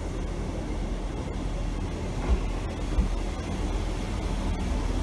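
Class 158 diesel multiple unit pulling slowly into a platform, its diesel engines and wheels making a steady low rumble, with two brief low thumps a little over two and three seconds in.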